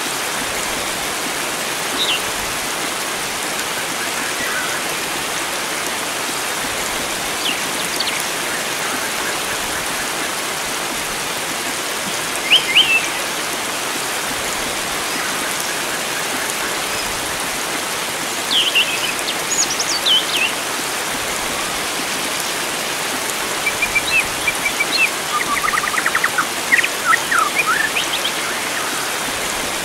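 Steady rush of flowing water with wild birds calling over it. Short chirps come every few seconds, then a run of quick repeated notes and trills near the end.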